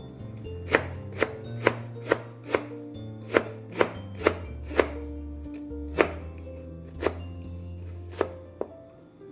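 Kitchen knife chopping Korean radish on a cutting board: about thirteen sharp chops, mostly about two a second, with a few longer pauses.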